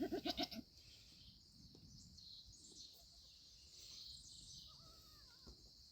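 A newborn pygmy goat kid gives a short, quavering bleat at the very start. Then it is quiet outdoors, with a faint high hiss and a few faint bird chirps, one near the end.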